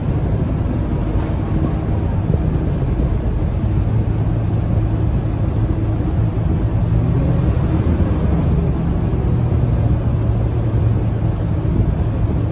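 Scania K230UB single-deck city bus under way, its 9-litre five-cylinder diesel running with a steady low drone mixed with road rumble.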